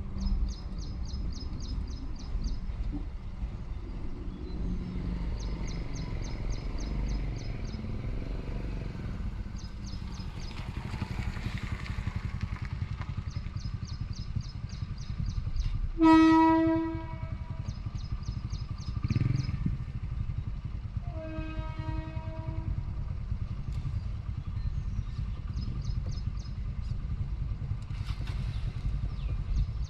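Train horn blowing: one loud blast of about a second, then a second, softer and shorter horn about five seconds later, over a steady low rumble. A faint high ticking comes and goes in short runs throughout.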